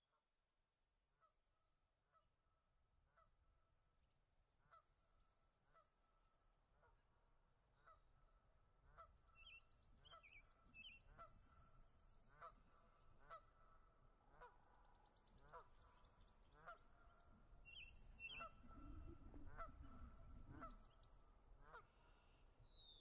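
Faint bird calls repeating about twice a second, with higher chirps and trills from other birds joining partway through. A low rumble swells near the end.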